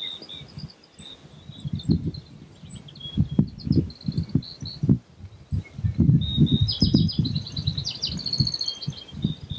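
Small birds chirping and twittering in short, quick phrases, over loud irregular low rumbles.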